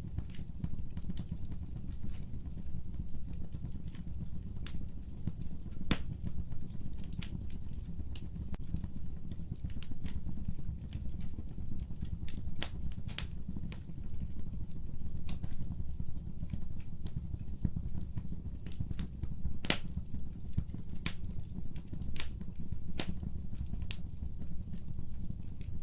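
Fire in a fireplace crackling: a steady low rumble of flames with irregular sharp pops and crackles, the sharpest pop about twenty seconds in.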